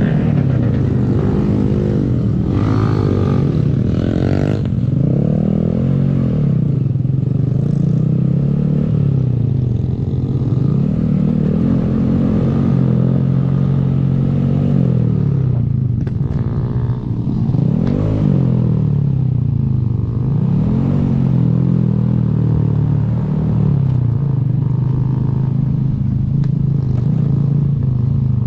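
Small Honda 125 cc single-cylinder motorcycle engine running under way, its note climbing and dropping again and again as the bike accelerates through the gears and eases off, with low wind rumble underneath.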